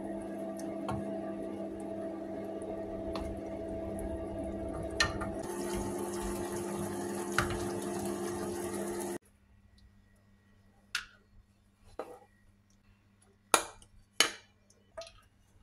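Chicken wings sizzling in a honey and oyster-sauce glaze in a nonstick wok, with a steady hum underneath and a few light clicks of a wooden spatula. About nine seconds in the sizzling cuts off, and five separate knocks follow as the cooked wings are set down on a plastic tray.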